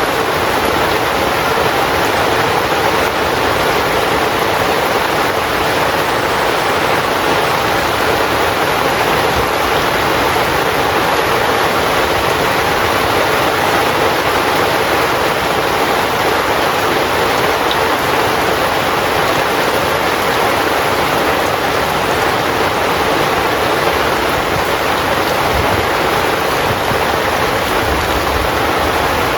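Heavy rain drumming steadily on a tent, a dense even hiss with no single drops standing out.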